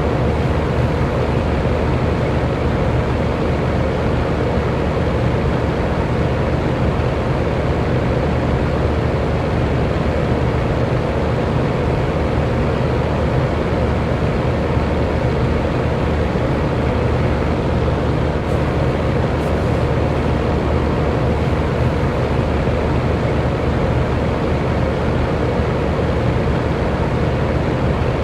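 Electric fan running steadily: an even rush of moving air with a faint steady hum from the motor, unchanging throughout.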